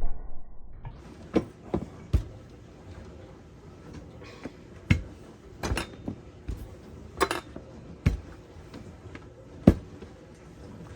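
Wooden rolling pin knocking and bumping on the counter while pie crust dough is rolled out, about ten irregular thumps, the loudest near the end.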